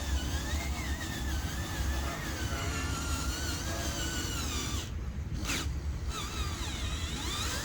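Whine of a small electric motor, its pitch wandering up and down, over a steady low rumble, with a brief dip in level about five seconds in.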